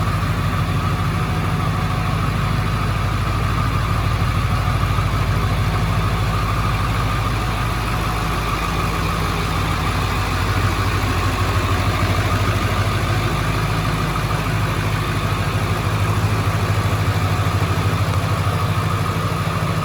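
A 2000 Ford Excursion's 7.3L Powerstroke V8 turbo-diesel idling steadily.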